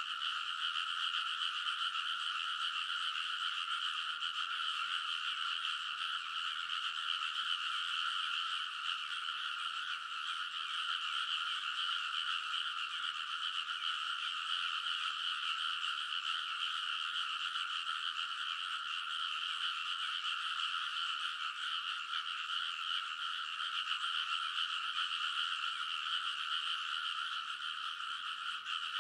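A large chorus of frogs calling all at once, a steady, unbroken din in which no single call stands out.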